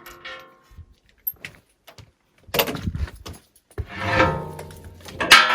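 Metal tools and parts clinking and clanging as they are handled, several separate strikes with a ringing tail. The loudest clang comes near the end.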